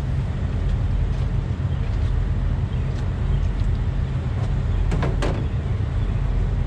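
Steady low rumble of an idling diesel truck engine, with a few faint clicks and a knock about five seconds in.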